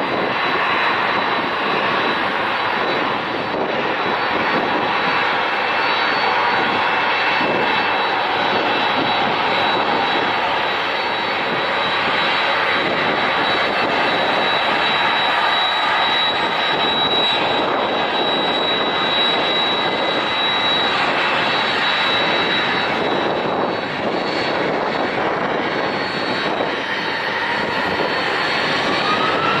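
Airliner engines at takeoff power on a rolling takeoff: a loud, steady roar with a thin high whine on top. Near the end a rising whine comes in as engines spool up.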